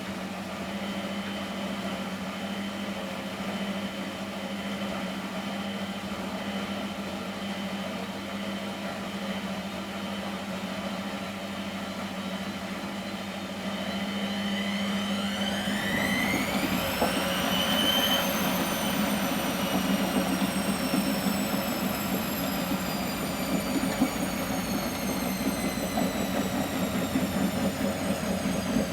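Miele Professional WS 5426 washing machine running with a steady hum. About halfway through, the drum motor speeds up with a whine rising over about four seconds, and the machine gets louder. The whine then slowly falls as the drum keeps turning.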